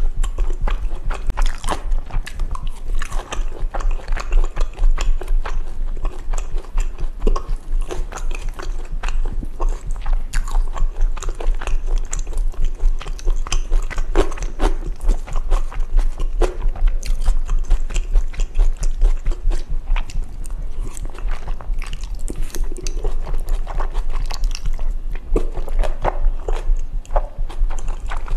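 Close-miked chewing and biting of spicy jajangmyeon with Chinese glass noodles, with dense wet mouth clicks and some crunching. Under it runs a steady low thumping, which the eater takes for her own heartbeat picked up by the microphone.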